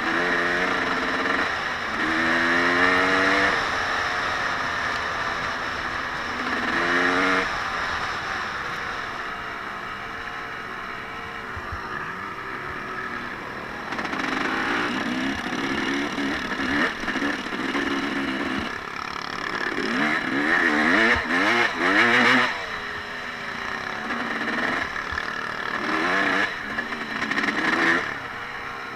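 A small off-road vehicle's engine running under changing throttle, revving up and easing off again and again, its pitch rising in several quick climbs and wavering up and down.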